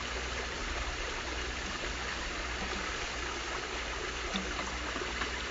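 Mountain stream flowing, a steady rush and babble of water.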